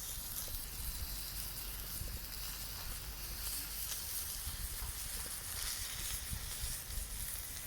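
Beef sizzling in a cast-iron skillet over a wood fire: a steady hiss with faint scattered crackles.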